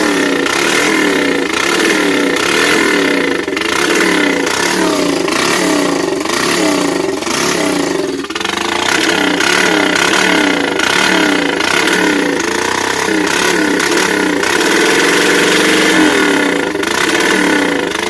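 Straight-piped Honda 300EX ATV's single-cylinder four-stroke engine running with no muffler, its pitch rising and falling in quick repeated swells as the throttle is blipped, then held steadier near the end. The owner says the carburetor is bad.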